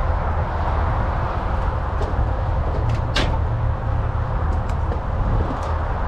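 Semi-truck diesel engine running at low speed with a steady low rumble while manoeuvring, with a brief sharp noise about three seconds in.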